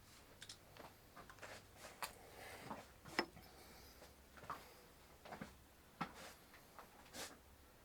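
Faint, irregular light clicks and knocks, about a dozen scattered over several seconds, from small metal parts and tools being handled while a strut top mount is put back together.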